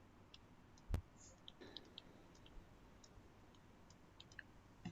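Near silence with faint scattered clicks, one sharper click about a second in.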